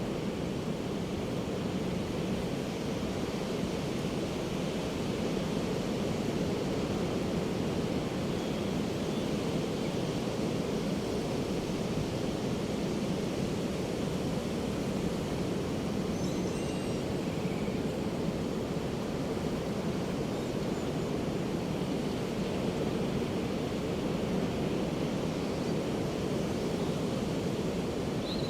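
Pacific Ocean surf breaking continuously on a beach, a steady, even wash with no distinct single crashes. A few faint bird calls come through about halfway and again at the very end.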